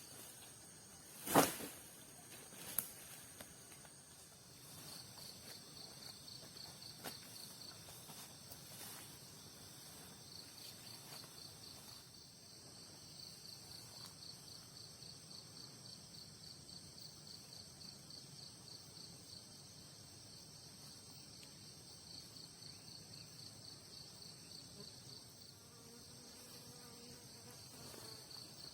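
Night insects calling: a fast pulsed chirping trill that comes and goes, over a steady high-pitched insect buzz. A sharp knock about a second in, and a smaller one a second later, are the loudest sounds.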